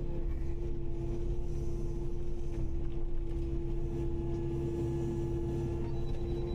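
Kubota KX080-5 excavator running steadily: a constant low diesel rumble with a steady, unchanging hum over it.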